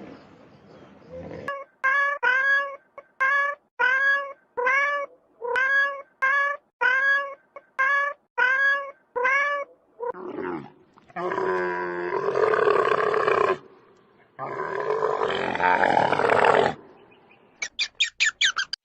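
Animal calls in sequence. First comes a run of about a dozen short pitched calls, each rising then falling, at about one and a half a second. Then two long harsh roaring calls, and a quick burst of short high chirps near the end.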